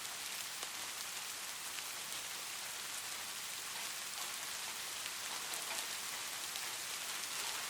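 Steady light rain falling, an even hiss with scattered soft drop ticks.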